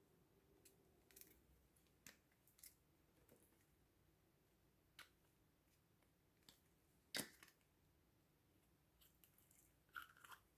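Faint sticky clicks and small pops of slime being squeezed and worked by hand, scattered and irregular, with one louder pop about seven seconds in and a short cluster near the end.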